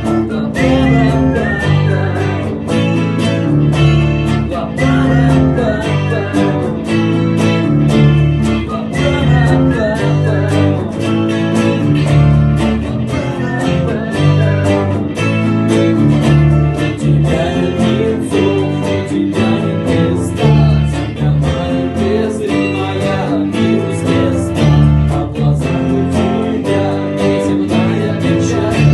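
Guitar strumming chords over a bass guitar line in an instrumental passage of the song, with a wavering melody line above in the first half.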